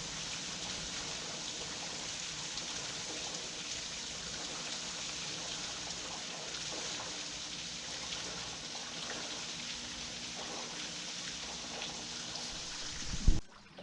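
Steady heavy rain falling, an even hiss of drops on surfaces. Just before the end comes a single loud, low thump, and the sound drops off briefly.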